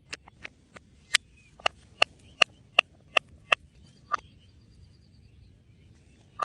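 A run of sharp knocks. A few light taps come first, then seven loud, evenly spaced strikes at about two and a half a second, and one more knock shortly after.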